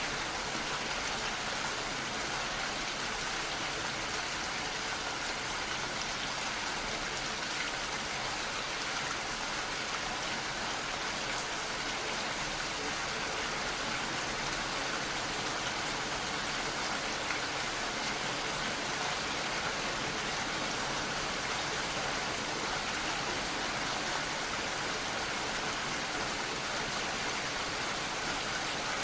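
Steady rain falling, an even hiss of many drops with no single drops standing out.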